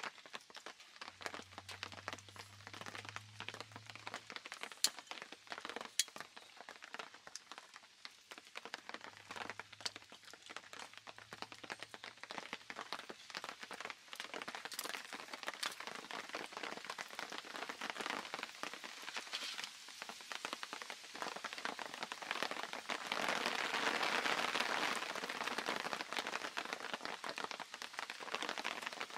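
Light, steady pattering like rain on a tarp, with two sharp clicks about five and six seconds in and a louder rushing stretch about three-quarters of the way through.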